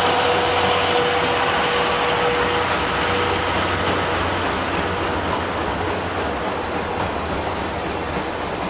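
Train hauled by the C11 207 tank steam locomotive running along the track with a steady rumble. A thin ringing tone is heard over it at first and dies away about three to four seconds in, and the whole sound slowly gets quieter.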